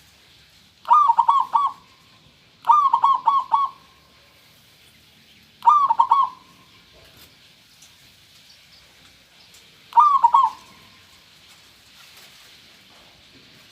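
Zebra dove (perkutut) song: four phrases of quick rolling coos, each of three to five notes, the first two close together and the last two shorter and further apart.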